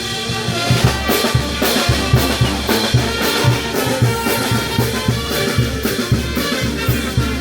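Peruvian brass band playing: trumpets and other brass over a drum kit keeping a steady beat.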